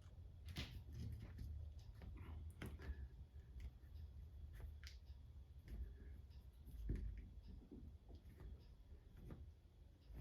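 Faint, scattered clicks and light knocks from hand work on a car windshield being worked loose, over a low steady hum.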